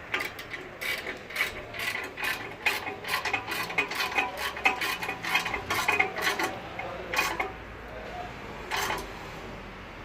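Ratchet wrench clicking in quick, irregular runs as exhaust bolts are tightened down. The clicking stops about seven seconds in, with one more click near the end.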